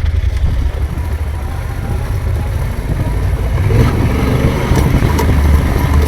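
Motorcycle running on a dirt road, with a heavy low rumble of wind on the microphone and a few sharp clicks about four and five seconds in.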